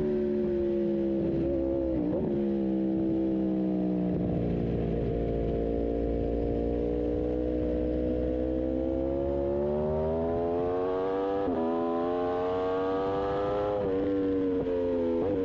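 Aprilia RSV4 1100 Factory V4 engine on a race track, heard onboard: the engine note falls for the first few seconds with brief breaks as the bike slows, then climbs steadily under acceleration, with an upshift near the end that drops the pitch before it climbs again. A steady low wind rumble runs underneath.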